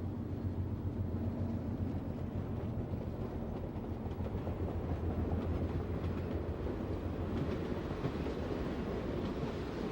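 Diesel-hauled local freight train running past: a steady low locomotive engine drone with the rumble of rolling cars, the rumble growing louder near the end.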